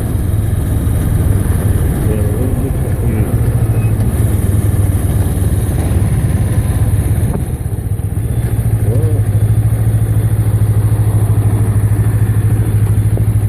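Motorcycle engine running steadily under way. The engine note dips briefly about seven and a half seconds in, then settles into a steadier, stronger drone.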